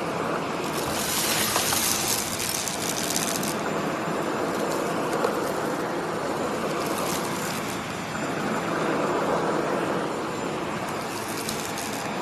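Shark PowerDetect corded stick vacuum running steadily. A sharp, crackly hiss comes over it for a couple of seconds about a second in, and again briefly in the middle and near the end.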